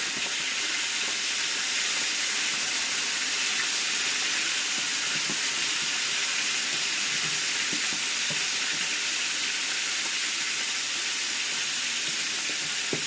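Fish frying in hot oil in a pan: a steady sizzle, with a few faint knocks.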